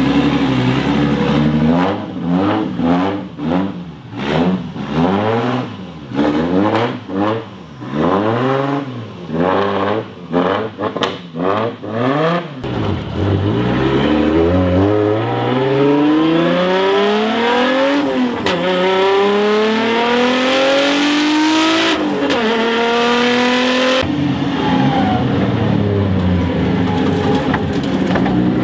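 Turbocharged Toyota 1JZ inline-six in a Cressida, through its side-pipe exhaust. It idles, then is revved in a string of about ten quick blips. After that it runs up in a long rising pull, dips in pitch briefly and rises again.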